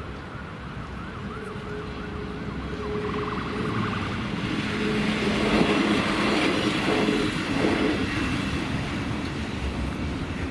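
A siren quickly rising and falling in pitch for the first few seconds. Then a vehicle passes close by, its noise building to a peak around the middle with a steady low hum, and easing off near the end.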